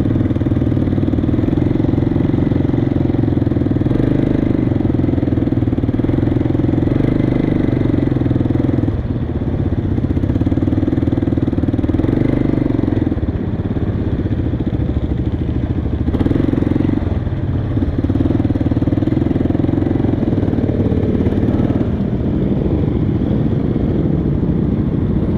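Motorcycle engine running steadily close by, its low hum dipping briefly a few times.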